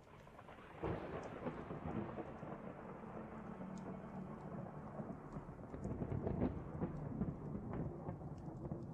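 Thunder rumbling in a storm over rain, starting suddenly about a second in, with scattered light ticks above the rumble.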